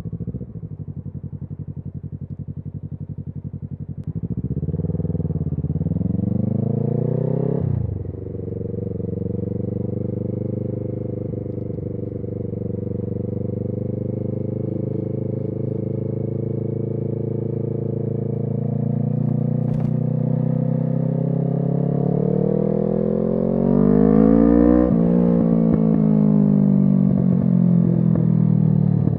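Kawasaki Z650's parallel-twin engine through an SC Project aftermarket exhaust. It runs steadily, then pulls away with rising revs and drops sharply at an upshift about 8 s in. It holds a fairly even pitch, revs up again about 20 s in, then falls off near the end as the bike slows.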